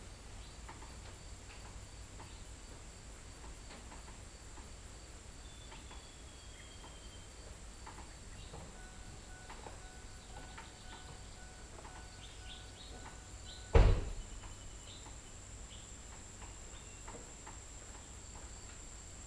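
Quiet background with a steady high insect drone, like crickets, and scattered faint clicks. About 14 seconds in there is a single sharp, loud thump.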